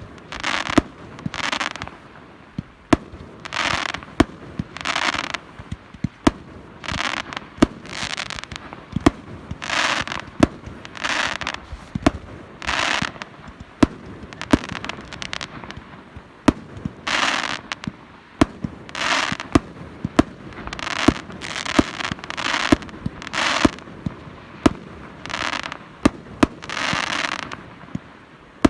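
Fireworks display going off steadily: many sharp bangs of bursting shells, with short hissing bursts about once a second between them.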